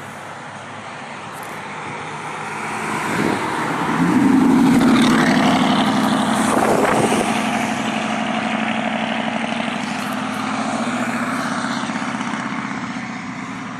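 A motor vehicle passing close by: a low engine hum with tyre and road noise that builds, is loudest a few seconds in, then slowly fades.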